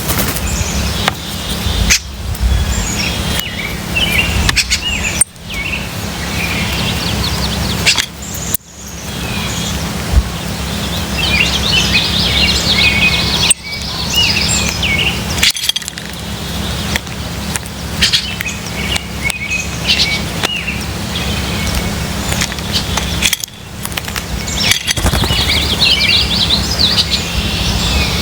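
Wild birds chirping and twittering in frequent short bursts over a steady low hum. The sound drops out suddenly and briefly several times.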